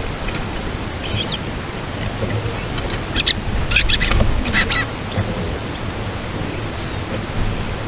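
A few sharp, high bird chirps: one curved call about a second in, then quick clusters of chirps a few seconds in, over steady wind-like noise.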